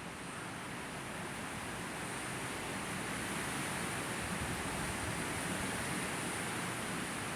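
Steady hiss of a thunderstorm outdoors, with a low rumble slowly building from about three seconds in.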